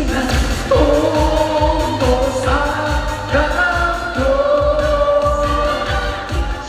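A trot song with a steady bass beat, a voice singing long held notes over it.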